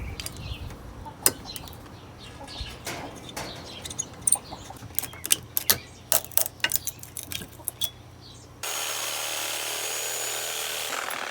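Salvaged metal parts clinking and knocking as they are handled, a quick run of sharp clicks. About eight and a half seconds in, a steady whirring noise with a thin high whine starts suddenly and runs on.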